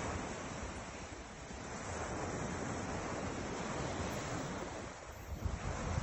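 Ocean surf: a long, steady wash of waves that eases off about five seconds in. Wind rumbles on the microphone near the end.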